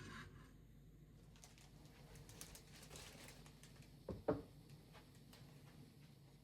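Faint handling noises in a quiet room: scattered light clicks, with two quick knocks close together about four seconds in.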